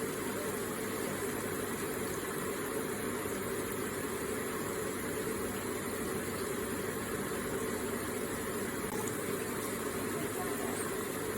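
Electric water feature running: a gentle, steady flow of trickling water.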